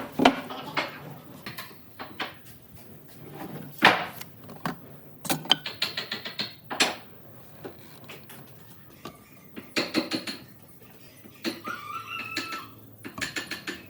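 Irregular clicks and knocks of tools and wood pieces being handled at a workbench, with a brief squeak about three-quarters of the way through.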